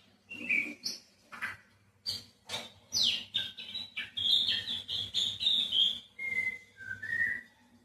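White-rumped shama singing: a varied run of clear whistles and sharp chirping notes, with a fast, dense string of notes through the middle and two lower whistled phrases near the end.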